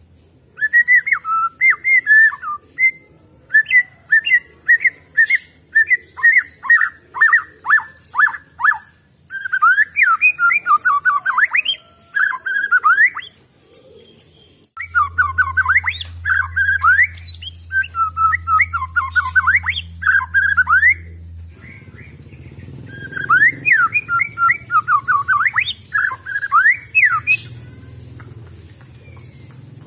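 White-rumped shama (murai batu) singing: runs of quick, repeated whistled and chattering notes sliding up and down, in phrases a few seconds long with short pauses between. This is the kind of bait song played to set off a shama that has gone quiet. A steady low hum joins about halfway through.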